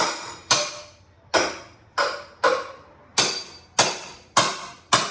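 Hammer striking a steel cat's paw nail puller to drive its claw under nail heads: about nine sharp, ringing blows, roughly two a second.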